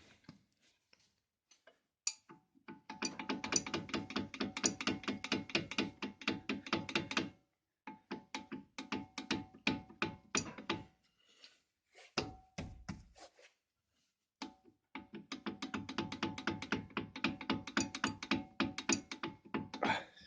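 Opel Astra J's brake calipers rattling: rapid runs of knocks in four bursts with short pauses between. The rattle remains even after replacement calipers and new brackets were fitted.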